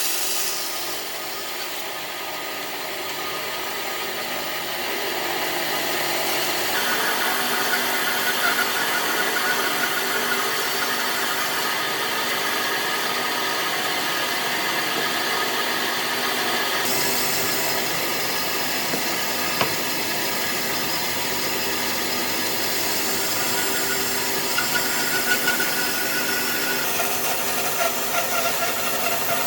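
Power tools working wood: a steady, noisy running sound with faint whining tones, changing abruptly a few times as one operation gives way to another.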